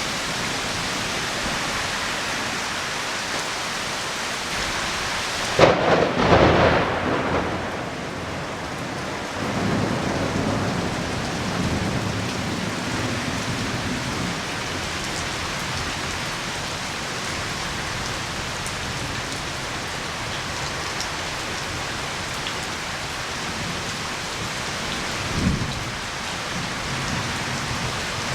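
Heavy rain falling steadily. About six seconds in a sudden loud thunderclap breaks out and trails into rumbling for several seconds, and a brief low thump comes near the end.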